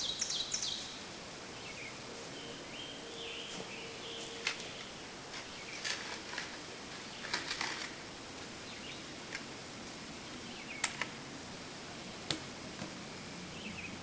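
Birds chirping, with a rapid high trill at the start and a few faint calls, and a handful of sharp knocks a second or more apart.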